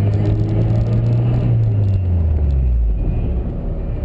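Honda S2000 engine heard from inside the car, running at a steady moderate speed, then the revs falling off about three seconds in.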